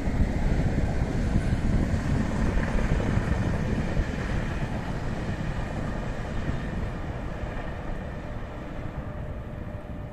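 Electric regional passenger train running along the tracks and moving away, a steady rumble that slowly fades.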